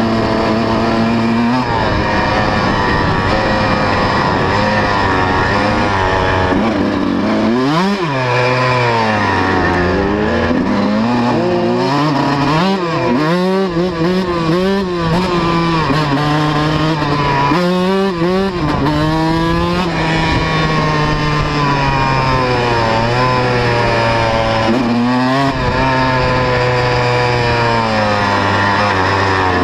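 125cc two-stroke motocross bike engine being ridden. It runs at a steady pitch for stretches, and its pitch rises and falls sharply several times as the throttle is worked.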